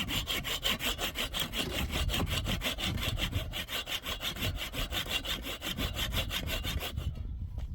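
A fast, even rasping rhythm of about six or seven strokes a second, like sawing or scraping, which stops about seven seconds in.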